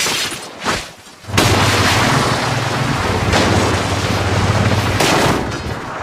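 Loud, heavily distorted cartoon crash and explosion sound effects. A first blast, a short drop about a second in, then a long noisy blast over a low hum that fades near the end.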